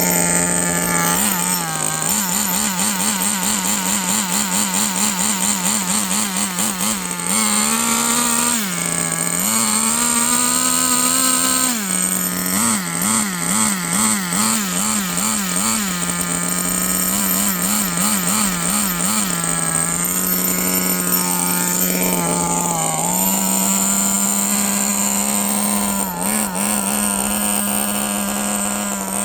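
Small glow-fuel (nitro) engine of a Kyosho FW06 RC touring car running during break-in. It drones steadily, with its pitch wavering quickly up and down in several stretches and rising in a few short higher-revving spells, as the throttle is worked gently.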